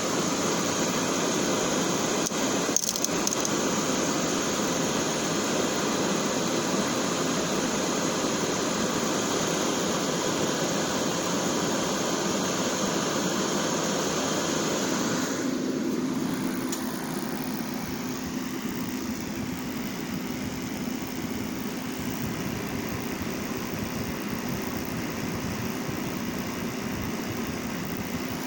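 Heat Star forced-air portable propane heater running with a steady rushing of burner and fan. A click comes about three seconds in. About halfway through, the sound turns quieter and less hissy, leaving a steady low hum.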